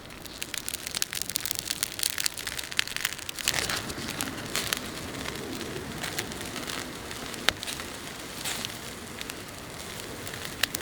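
Wood fire burning in a small fire pit, crackling with irregular sharp pops.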